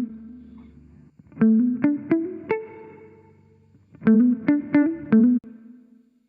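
Guitar loop playing phrases of four or five quick plucked notes, run through a vintage-style saturation plugin. The last phrase cuts off abruptly about five seconds in.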